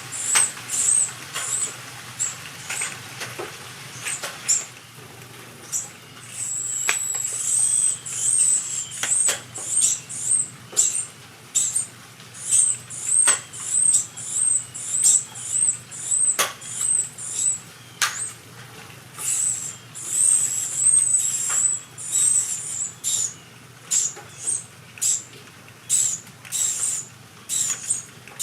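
Carolina wren nestlings begging: runs of thin, very high squeaky peeps repeated over and over, with scattered sharp clicks.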